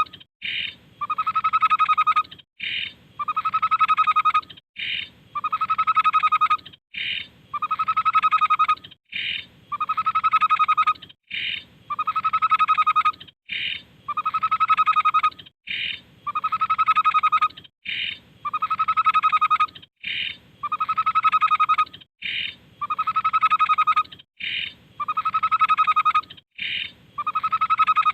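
Tepus babbler song: the same call repeated evenly about once every two seconds, each a short high note followed by a longer, steady note.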